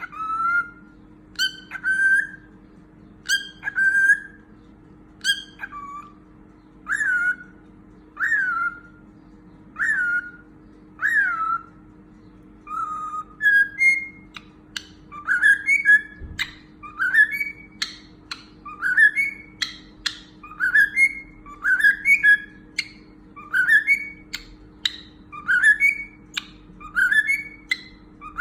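Pet cockatiel whistling a short phrase over and over, each note swooping up and down in pitch. The notes come every second or two at first, then about once a second in the second half.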